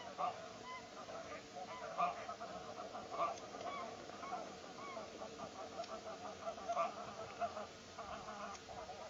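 A dense chorus of waterbirds calling on a marsh, with many short calls overlapping without a break.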